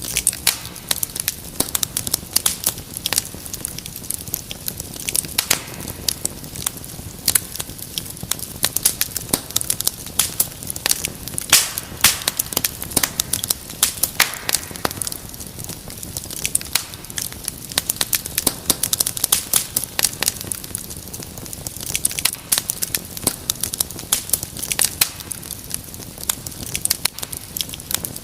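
Wood fire in a fireplace crackling, with dense irregular pops and snaps over a low steady hiss.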